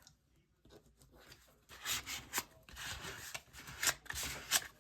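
Paper and card being handled and rubbed: a dry rustling scrape that grows louder about two seconds in, with a few sharp clicks.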